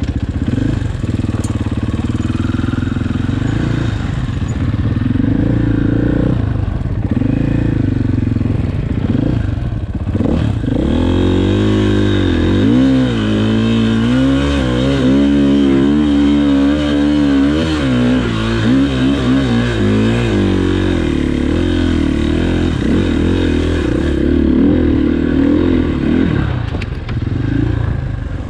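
Enduro motorcycle engine running off-road, its revs rising and falling with the throttle. The note wavers up and down quickly in the middle.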